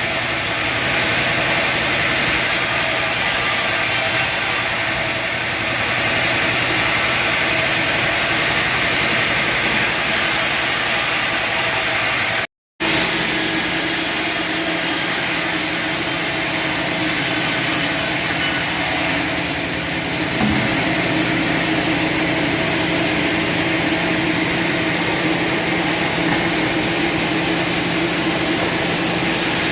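Bandsaw sawmill running: a steady, continuous machine noise from its motor and band blade, with one brief total dropout about a third of the way through.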